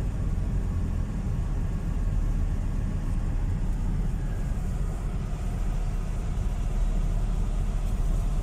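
Car driving slowly on a gravel road, heard from inside the cabin: a steady low rumble of engine and tyres.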